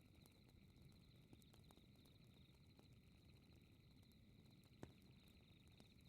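Faint fireplace crackle: a low rumble of burning wood with scattered small pops and one sharper pop about five seconds in, under a steady high chirring trill.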